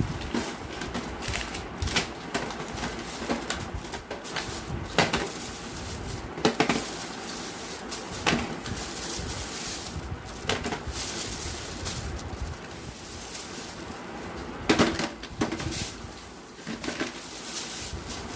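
Scattered clicks and knocks of kitchen items being handled, irregular and a second or more apart, the sharpest about two-thirds of the way through, over a steady hissy background.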